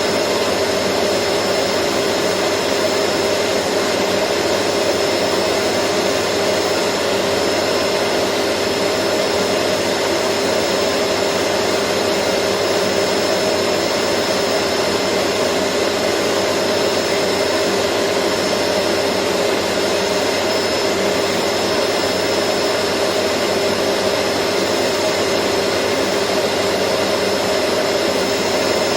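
Vacuum cleaner motor running steadily, a constant rushing hiss with a steady hum and a faint high whine, unchanging throughout.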